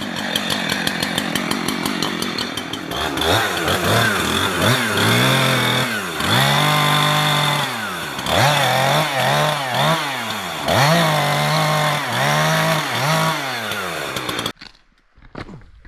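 Two-stroke chainsaw limbing and bucking spruce. It runs at a steady high speed for a few seconds, then revs up and down over and over, its pitch dropping and climbing back with each cut. It cuts off abruptly near the end.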